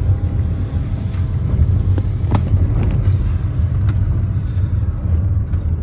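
Car driving, heard from inside the cabin: a steady low engine and road rumble, with a few small knocks and rattles.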